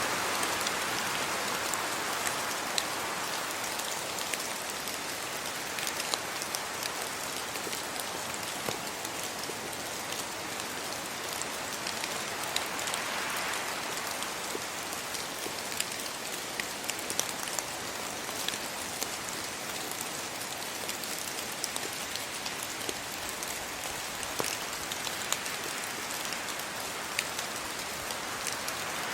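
Steady rain falling, with many sharp drop ticks. Wind rises in the trees' leaves in soft swells near the start, about halfway through, and again near the end.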